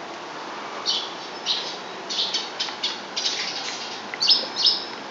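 Small birds chirping in the trees outside: a run of short, high chirps, the loudest near the end.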